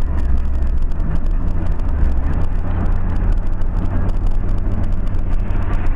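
Steady, loud rumble of a car on the move: engine and road noise picked up by a dash-cam microphone, with no crash or impact heard.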